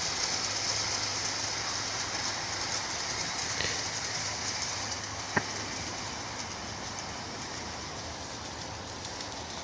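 Garden-scale model train running on outdoor track, its wheels rolling over the rails and its electric motor running, with no locomotive sound system. The sound fades slowly, with a single sharp click about five seconds in.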